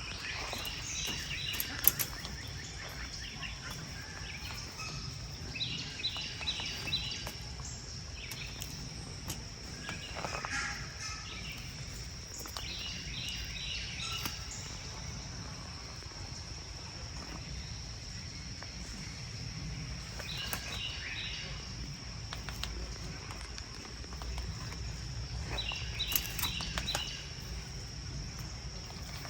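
A bird repeating a quick run of four or five high chirps about every six to seven seconds, over a steady high-pitched hum and low outdoor rumble.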